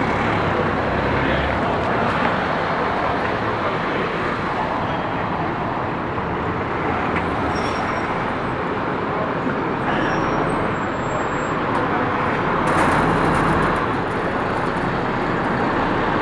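Steady road traffic noise of vehicles in the street, with a few brief high-pitched squeals around the middle.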